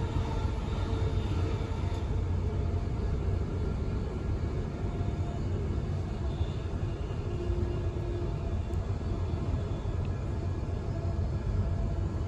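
Steady low rumble of a Queensland Rail NGR electric multiple-unit train running at speed, heard from inside the passenger car.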